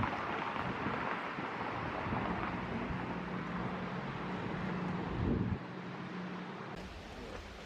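A vehicle engine running with a steady low hum, with wind buffeting the microphone. The noise drops off about five and a half seconds in.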